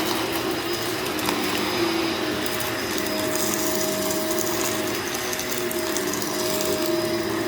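Upright vacuum cleaner running over dirty carpet: a steady motor hum whose tone wavers slightly, with a higher steady tone joining about three seconds in.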